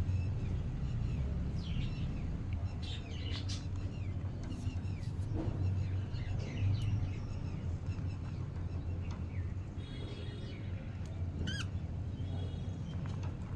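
Budgerigars chirping, with short high calls scattered throughout, over a steady low hum.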